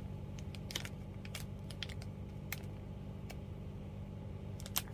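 Scattered sharp plastic clicks and ticks from small toy packaging being handled and opened by hand, coming irregularly about every half second, with a pair near the end.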